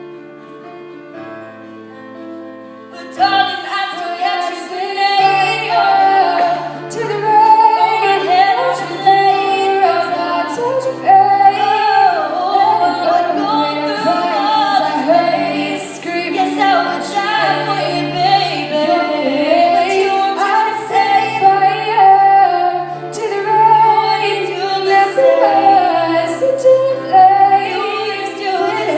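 Female pop singing over sustained backing chords: a quiet stretch of held chords opens, then the singing comes in loudly about three seconds in and carries on as the song.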